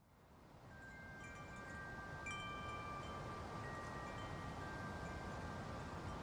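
Wind chimes ringing a few scattered, long-held notes over a steady ambient background that fades in over the first two seconds.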